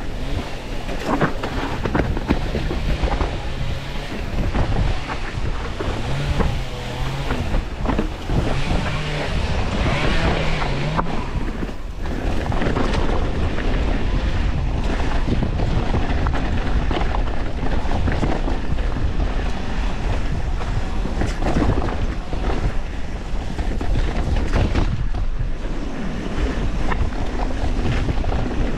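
Wind rushing over an action camera's microphone during a mountain bike descent on a rough trail, with a constant clatter of knocks and rattles from the full-suspension bike and its tyres over the ground.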